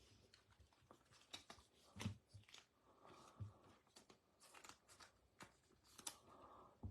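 Faint handling of trading cards: scattered soft clicks and brief rustles as the cards are moved and sorted.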